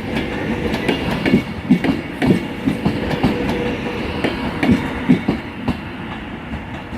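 Arriva Trains Wales train rolling through the station, its wheels clattering over rail joints and points in irregular knocks over a steady rumble, easing off slightly near the end.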